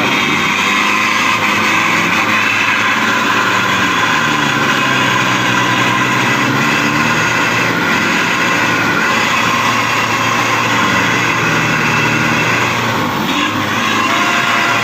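A truck engine revving hard under load, its pitch rising and falling several times as it labours through mud.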